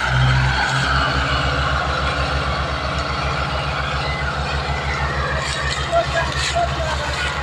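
Tractor diesel engine running with a fast, even low throb that sets in just under a second in.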